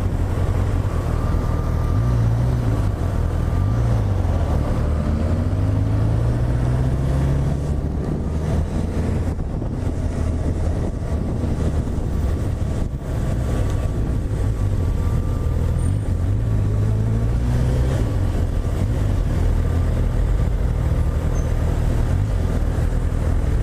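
Honda CB1000R's inline-four engine running under way, its pitch rising and falling several times as the rider accelerates and eases off, over steady wind noise.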